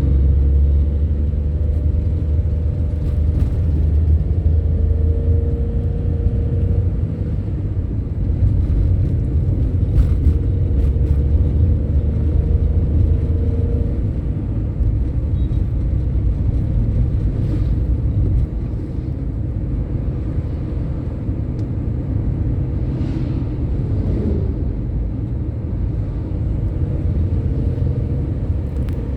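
A road vehicle driving: a continuous low engine and road rumble with a faint whine that rises and falls a few times, and a few light clicks and knocks.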